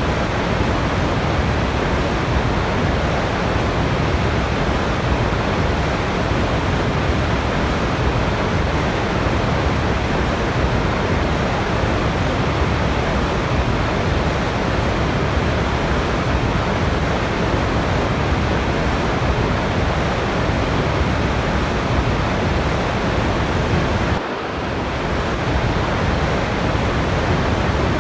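Steady rushing of a waterfall, a dense even roar of falling water, with a brief drop in level near the end as the recording is spliced.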